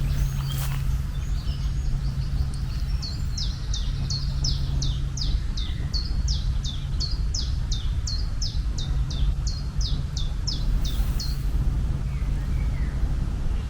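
A bird calling a long series of short, falling chirps, a little under three a second, stopping about eleven seconds in, over a steady low rumble.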